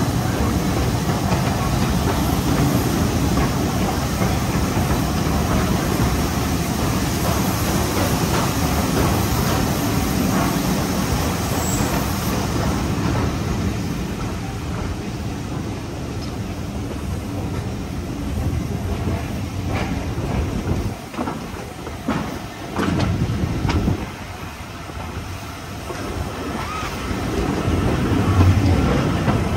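Coaches of a steam-hauled passenger train running along the rails, heard from on board: steady wheel and track noise that dips briefly about two-thirds of the way through, then rises again.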